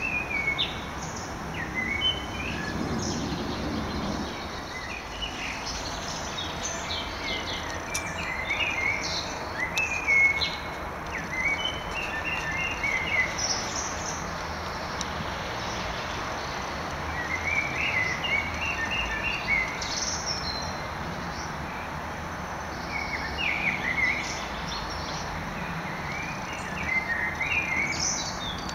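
Small birds singing: short runs of high chirping notes every few seconds, over a steady background hiss.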